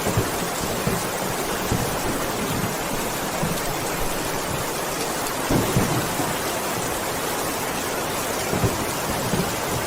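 Heavy rain pouring steadily, a dense even hiss with a few louder low thuds of water now and then.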